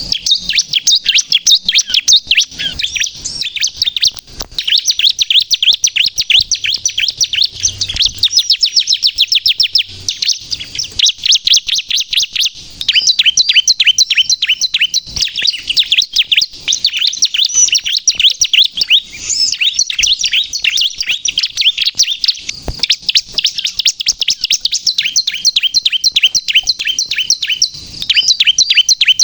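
Bar-winged prinia (ciblek) of the pale 'kristal' variety singing vigorously: long runs of rapid, high-pitched chirping chips, with a few short pauses.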